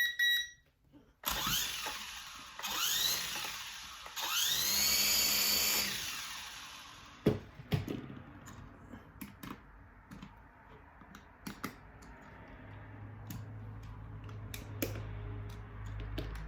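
SG907 quadcopter drone's motors spinning up in three short bursts, each a rising whine, likely a test run after the repair. Scattered clicks and knocks of handling follow, with a low hum near the end.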